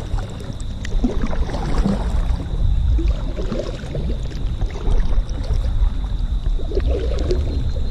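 Kayak on the water: a steady low rumble with scattered light knocks and clicks.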